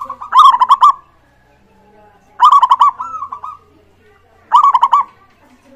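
Zebra dove (perkutut) cooing: three loud, bubbling phrases of quick rolling notes, each about a second long, repeated roughly every two seconds.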